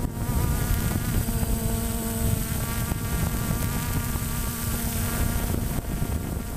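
DJI Phantom 1 quadcopter in flight: its motors and propellers give a steady, many-toned insect-like buzz that wavers slightly in pitch, over a low rumble.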